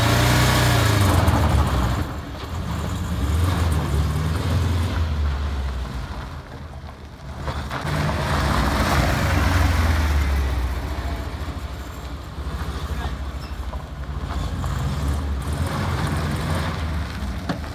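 Zaporozhets's rear-mounted air-cooled V4 engine revving under load as the car is driven, its note rising and falling several times, with a lull about seven seconds in. The engine is down on power: it doesn't pull.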